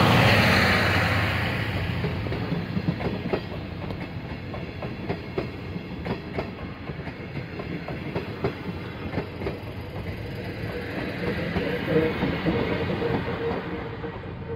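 Passenger coaches of a Chichibu Railway electric-locomotive-hauled train rolling past close by, wheels clicking over the rail joints in a clickety-clack. Near the end the trailing electric locomotive passes and the sound fades away.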